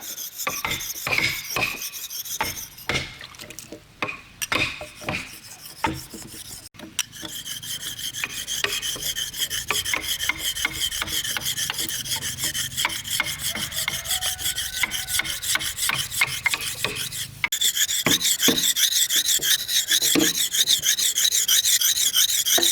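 A tool working wood with rapid rasping, scraping strokes: separate strokes at first, then a dense continuous run that grows louder near the end.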